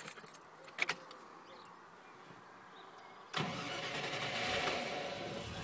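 Rover V8 engine under Lucas 14CUX fuel injection starting: after a click or two and a quiet pause, it catches suddenly about three and a half seconds in. It then runs at a steady fast idle, the ECU holding the revs up just after the start. Heard from inside the cab.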